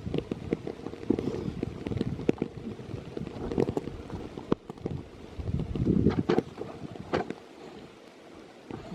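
Wind noise on the microphone with irregular rustles, clicks and knocks of a camera carried on a walk through the woods.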